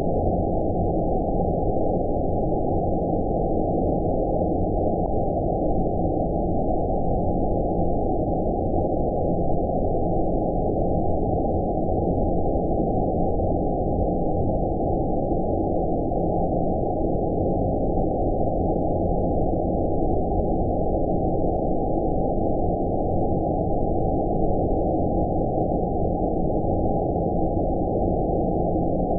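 Steady synthesized 'outer space' white noise: a low, dull, unbroken hiss with everything above the low range filtered out, so it sounds deep and muffled.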